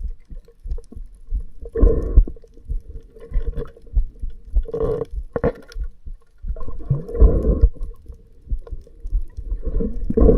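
Water heard through an action camera's microphone underwater: a low, muffled rumbling with louder surges every couple of seconds over a faint steady hum.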